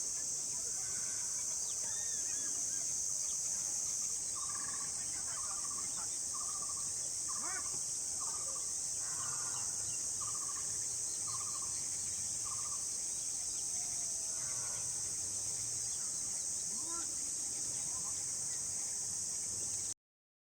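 A steady high-pitched drone of insects runs throughout, with a bird repeating one short note about ten times, roughly one a second, through the middle, and a few faint chirps. The sound cuts off suddenly near the end.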